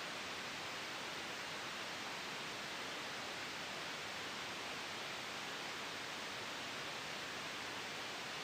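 Steady white noise: an even, unchanging hiss with no gusts or sudden sounds.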